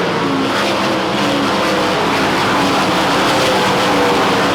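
Several winged dirt-track sprint cars racing at once, their engines held near full throttle, their pitches overlapping and wavering as the cars go around.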